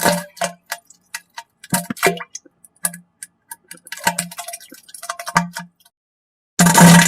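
A run of short, wet spluttering pops and clicks, fart and diarrhea sounds, some with a brief low buzz. A longer, louder buzzing fart starts near the end.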